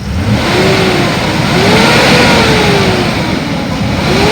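Ford F-250's 6.2-liter V8 gasoline engine being revved up and let back down repeatedly: a short rev, a longer one about two seconds in, then another climbing near the end. It runs smoothly, with no knocks, and sounds good.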